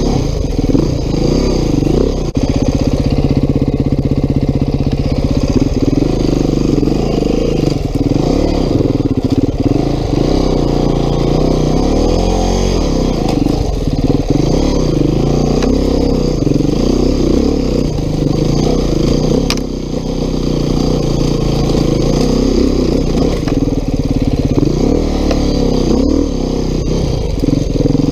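Beta 390 RR-S single-cylinder four-stroke enduro motorcycle being ridden off-road, the engine's revs rising and falling over and over as the throttle is worked. A few sharp knocks stand out along the way.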